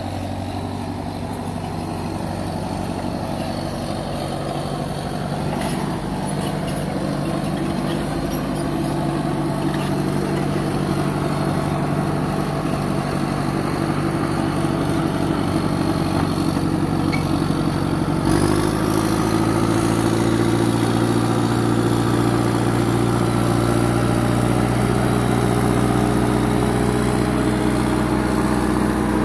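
Caterpillar 955 track loader's diesel engine running steadily and growing gradually louder. About two-thirds of the way through its note changes abruptly, and a faint high whine rises in pitch.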